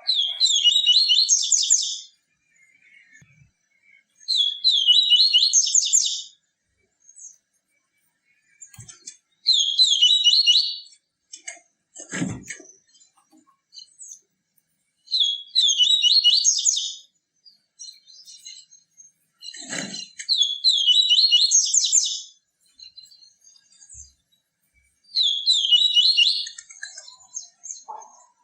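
Papa-capim seedeater singing: six high, fast phrases of about two seconds each, repeated roughly every five seconds. A couple of faint knocks fall between the phrases.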